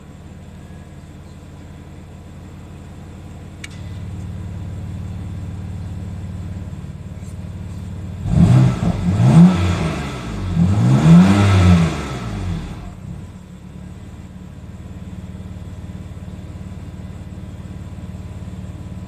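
BMW M4's twin-turbo straight-six idling through an exhaust whose valves are set by an aftermarket valve controller. The idle gets louder about four seconds in, then the engine is revved twice, each rev rising and falling, before settling back to idle.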